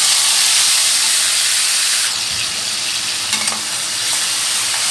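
Marinated chicken tikka strips sizzling loudly in hot oil in a kadhai, just added to the pan. There is a steady frying hiss, with a couple of small knocks about midway.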